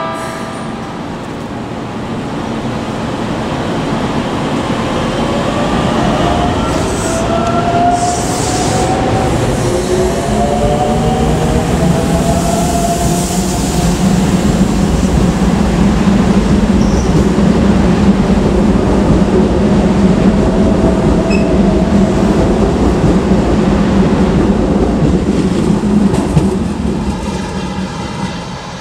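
Electric commuter train running by, with wheel and track rumble that grows louder and motor whine tones that rise in pitch, before it fades away near the end.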